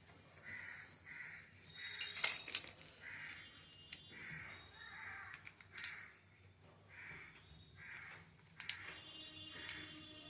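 A crow cawing again and again, about once a second. Sharp metallic clinks of metal parts being handled cut in several times, the loudest about two and a half seconds in.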